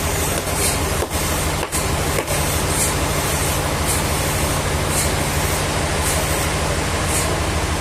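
Sawmill machinery running steadily with a constant low hum, overlaid by a faint high hiss that recurs about once a second.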